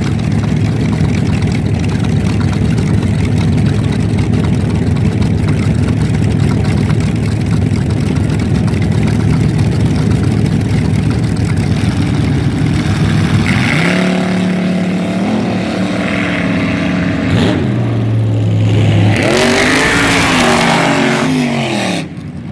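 Front-engine dragster's small-block Chevrolet V8 running loud and steady, then revving up and down. Near the end it holds a higher note before rising and falling sweeps, and the sound drops off sharply just before the end.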